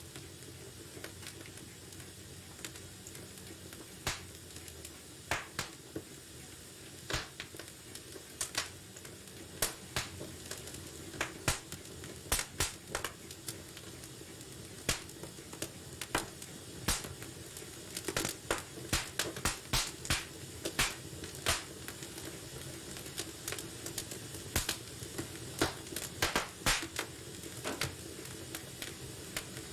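Wood fire in a fireplace crackling and popping: irregular sharp snaps, a few at a time at first and more frequent from about a third of the way in, over a steady low hiss of burning.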